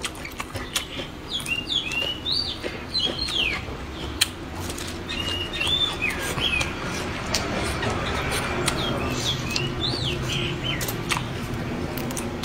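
Small birds chirping off and on, short rising and falling calls, over a person chewing and crunching food with many small clicks.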